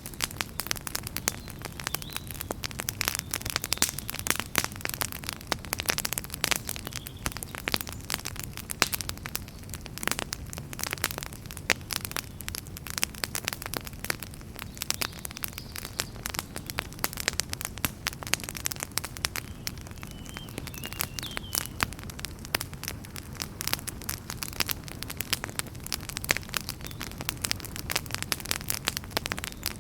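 Fire burning in a fireplace, crackling steadily with dense, irregular pops and snaps over a low rumble of the flames. A faint, brief high whistle comes through about two-thirds of the way in.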